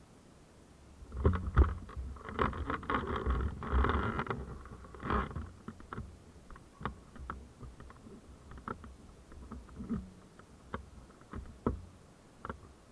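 Irregular clicks, knocks and rustling close to the microphone. They come thick for the first few seconds, then thin out to scattered single clicks.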